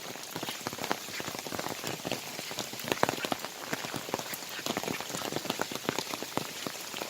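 Heavy, continuous rain falling on the ground and foliage, with many individual drops pattering and ticking close by.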